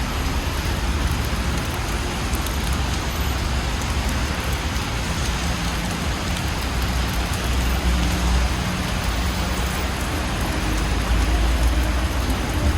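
Steady rain falling on the street, an even hiss of drops, over the low rumble of city traffic.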